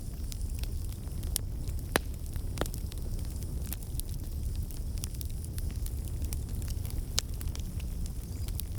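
Wood fire in a fireplace crackling: a steady low rumble of flames with scattered sharp pops and snaps. The loudest pops come about two seconds in and again near the seven-second mark.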